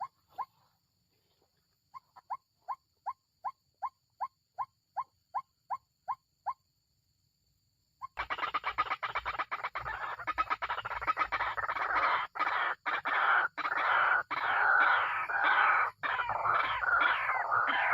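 White-breasted waterhen calling: first a steady series of short clucking notes, about three a second. Then, from about halfway, a loud continuous run of rapid repeated calls with falling notes.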